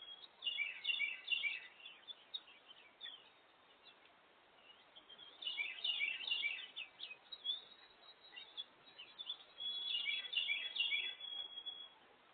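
Small songbirds chirping in three bursts of quick, high, down-sweeping notes spaced a few seconds apart, over faint outdoor background hiss.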